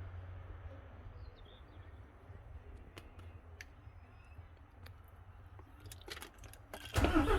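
Mercedes-Benz Actros 1844 MP3 truck's V6 diesel engine starting: a low hum and a few faint clicks, then the engine fires with a sudden loud burst near the end.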